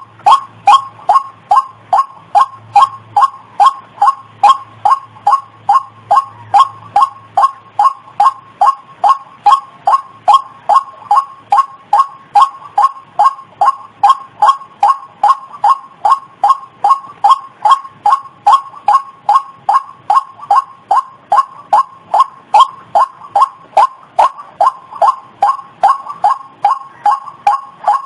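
White-breasted waterhen (ruak-ruak) call used as a bird lure: short, loud notes repeated evenly at about two to three a second without a break.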